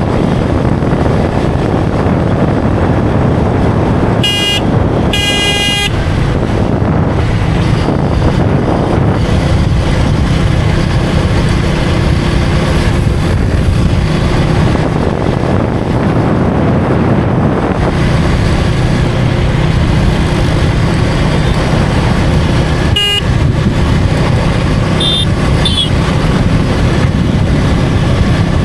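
KTM Duke 250 single-cylinder engine running at road speed, with steady wind rush on the microphone. Vehicle horns honk twice about four and five seconds in, and once more briefly near the end.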